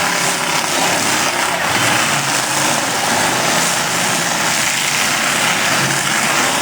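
Engines of several demolition derby cars running at once, loud and steady.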